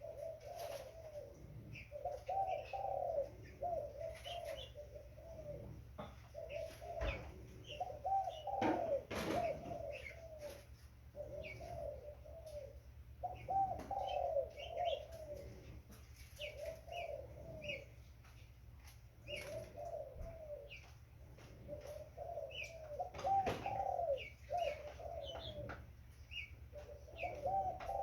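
Young spotted dove (tekukur) cooing in short, rolling phrases repeated every two to three seconds, with faint high chirps between them and a steady low hum underneath.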